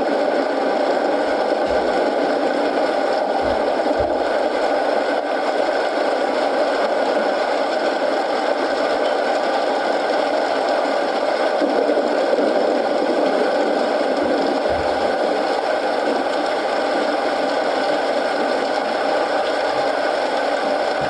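Steady rain mixed with a wood fire crackling in a fireplace, with a few brief soft low thuds.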